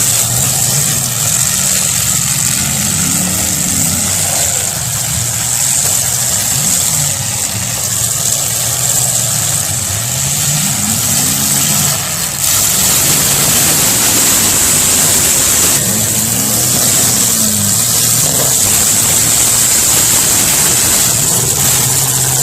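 Demolition derby car engines running and revving. The engine pitch swells and falls back several times as the cars accelerate and ease off.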